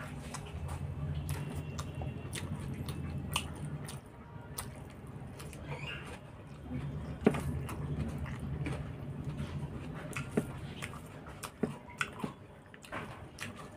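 Close-miked eating sounds: chewing and wet mouth clicks and smacks as a mouthful of rice and curry eaten by hand is chewed. The loudest is a sharp smack about seven seconds in. A low hum sits underneath for the first few seconds and again in the middle.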